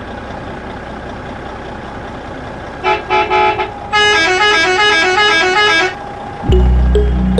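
A vehicle engine running steadily, then a few short horn toots about three seconds in, followed by a musical horn playing a quick tune of stepping notes. Loud background music with a heavy bass comes in near the end.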